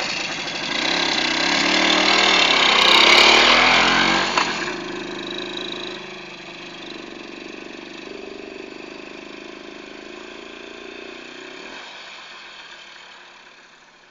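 IZh-56 motorcycle's two-stroke single-cylinder engine revving up and down, then running more quietly and steadily, with the sound dropping away after about twelve seconds.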